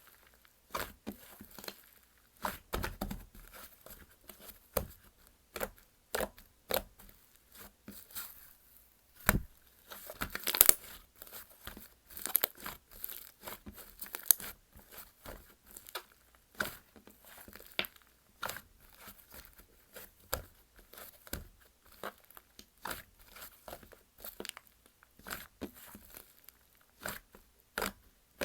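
Slime being squished, stretched and poked by hand, making an irregular run of sticky clicks, pops and crackles, with a louder flurry about ten seconds in.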